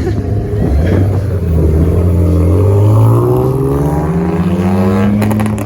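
A car engine accelerating hard, its pitch climbing steadily for about four seconds.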